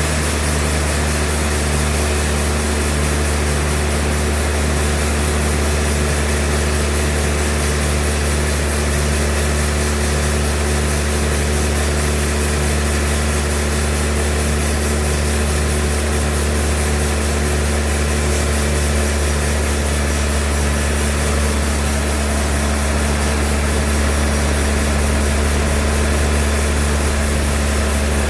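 Sawmill's engine running steadily with a deep, even drone that holds constant in pitch and loudness.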